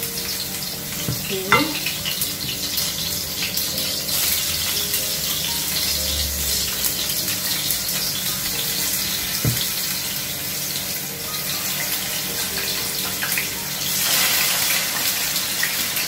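Potato wedges sizzling in hot vegetable oil in a stainless steel frying pan, the sizzle swelling as more raw wedges are dropped in. A couple of sharp clicks sound over it.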